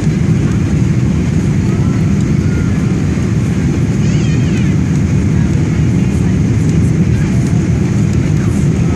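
Steady engine and airflow noise heard inside the cabin of a Boeing 777-200ER airliner, strongest in the low range.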